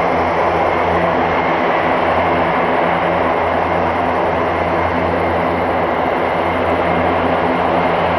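Airbus A400M's four TP400-D6 turboprop engines and propellers running steadily: a loud, even drone with a low hum and a thin, steady high whine above it.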